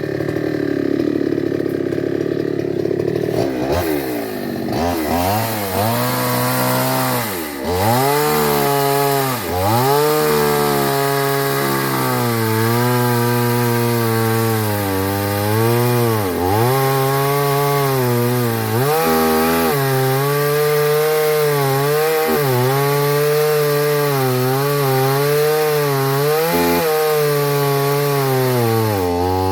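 Two-stroke chainsaw running hard, its engine note sagging and climbing back again and again, as a saw's revs drop when the chain bites into wood and rise as it frees.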